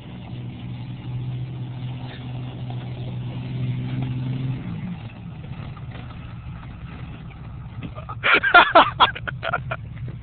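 Truck engine running at a steady pitch, its note sliding lower about halfway through as the revs drop. Near the end comes a brief cluster of loud, short, sharp sounds.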